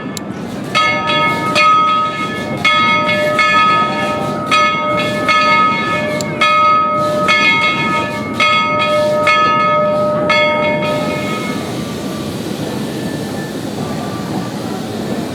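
Steam locomotive bell ringing steadily, about one stroke every 0.7 seconds, over the rumble of the moving train; the bell stops about three quarters of the way through, leaving only the train's running noise.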